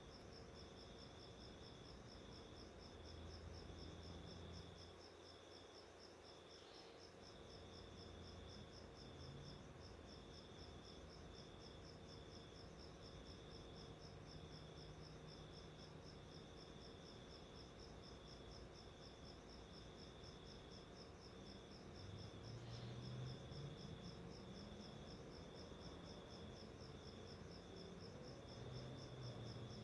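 Faint, steady high-pitched insect trill: a rapid, even pulsing with a second, slightly lower broken tone alongside it.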